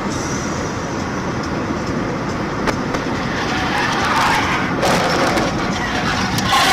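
Car driving: steady engine and road noise, getting a little louder and rougher about four seconds in.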